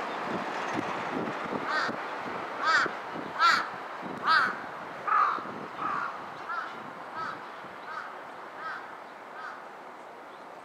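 A bird's harsh calls repeated in an even series, about eleven in all, each under a second apart, loudest early in the series and fading away toward the end, over a steady background hiss.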